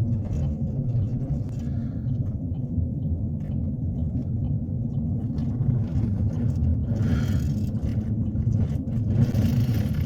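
Steady low road and engine rumble heard inside a moving truck's cabin on snowy winter roads, with a couple of brief hissing swishes in the second half.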